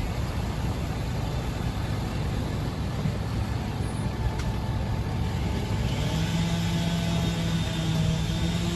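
A road vehicle running, with a steady low rumble. About six seconds in, a steady droning hum joins it and holds.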